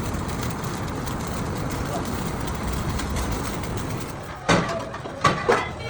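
Steady workshop rumble, then from about four and a half seconds in, several sharp metal clanks that each ring briefly, as of sheet or plate steel being struck.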